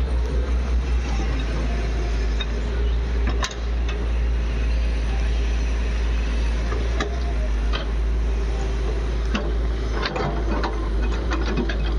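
Heavy diesel machinery running steadily, with scattered metallic clanks and knocks: a sharp one about three and a half seconds in and a cluster near the end.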